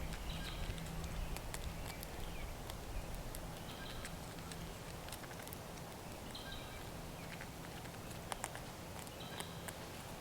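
A short bird call repeated about every three seconds, over scattered sharp taps and clicks and a steady low hum.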